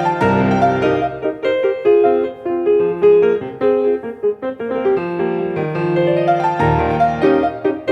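Solo acoustic piano played in a recital, with flowing runs of notes over chords and bass notes that come in more strongly near the end.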